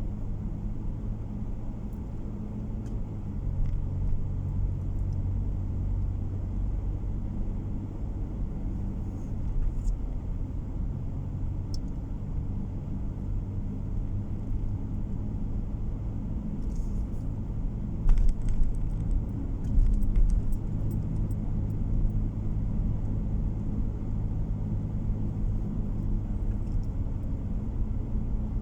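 A car's steady low road and engine drone heard from inside the cabin while driving, with a few louder thumps about two-thirds of the way through.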